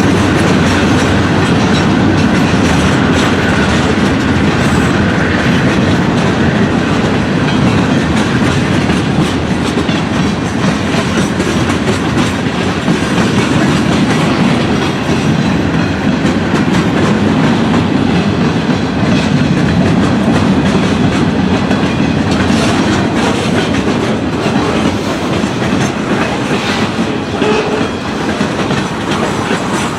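A train rolling past close by, its steel wheels running steadily on the rails, with a few sharp clicks after the middle. The sound eases slightly in the last few seconds.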